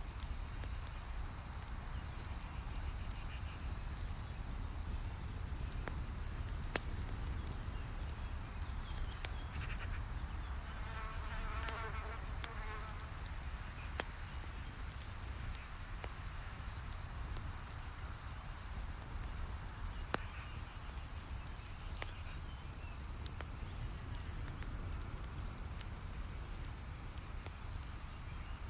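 Campfire crackling, with scattered sharp pops over a steady low rumble. A flying insect buzzes past, swelling and fading about ten to thirteen seconds in, and faint high insect chirring comes and goes.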